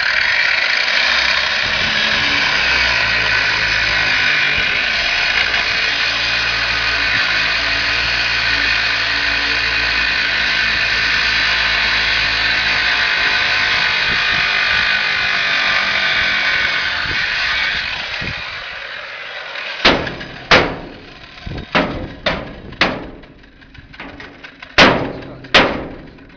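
Angle grinder with a cutting disc running steadily through a garage lock's metal with a high, hissing squeal, then winding down. About seven sharp knocks follow near the end, struck on the metal.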